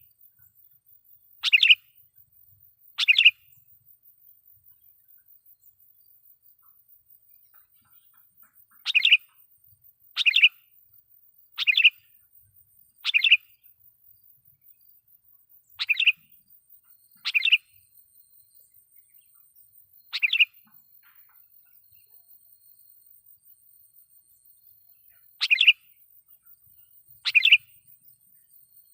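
Sooty-headed bulbul (kutilang) lure bird giving short, loud call notes, eleven in all, mostly in pairs or short runs about a second and a half apart, with pauses of several seconds between runs.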